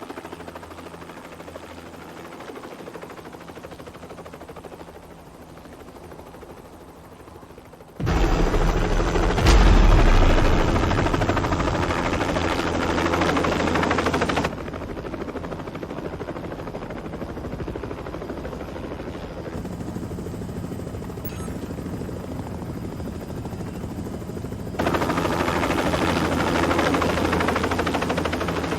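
Film soundtrack of a helicopter's rotor and engine, starting as a steady hum and jumping abruptly about 8 seconds in to a much louder, denser rush with a heavy low thud. The level steps down again midway and back up near the end.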